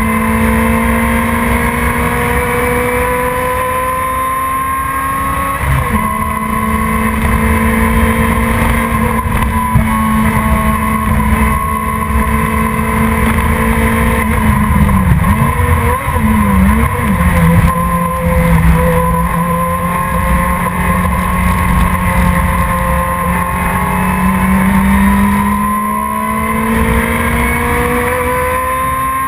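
Production sports car engine running hard in a race, its pitch held high and fairly steady. About halfway through it dips and wobbles briefly, runs lower for a while, then climbs again near the end.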